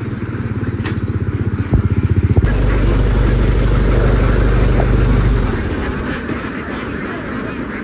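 A vehicle engine running close by, pulsing unevenly at first and loudest about two seconds in. It then runs steadily and eases off about five and a half seconds in, with ducks quacking.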